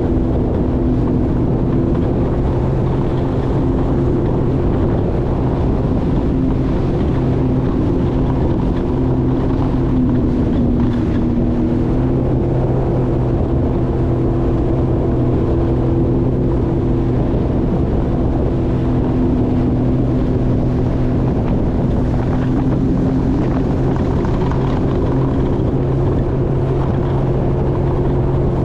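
Jet ski engine running steadily at cruising speed, its pitch holding nearly constant with a slight waver about ten seconds in.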